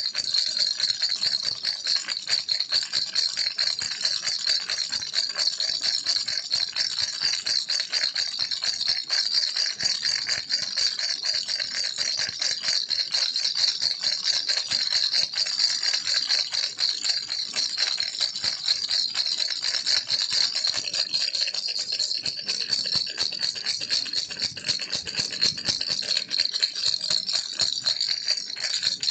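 Baby rattle shaken continuously: a steady, dense, fast clatter of small beads.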